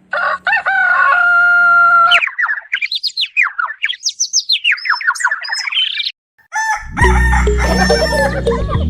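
A rooster crows once, holding a long note, then a songbird sings a fast run of rising and falling whistled notes. After a brief silence, music with a heavy bass starts about seven seconds in.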